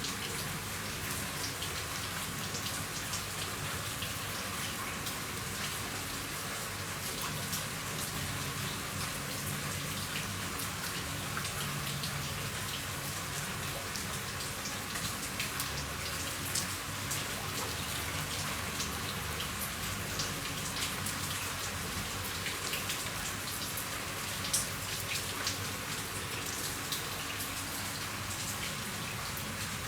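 Steady rain falling on a roof: a dense hiss of drops with scattered louder individual drop hits.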